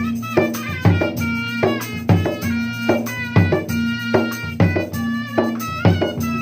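Dangdut music: gendang hand drums playing a repeating pattern under a melody line, with a steady low drone beneath.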